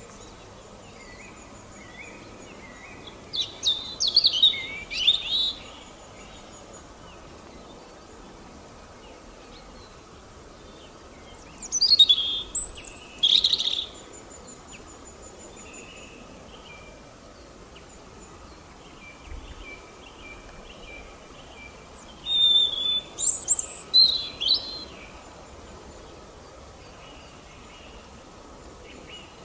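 A songbird singing three separate short phrases of quick high sweeping notes, about ten seconds apart, with fainter chirps between them over a steady background hiss.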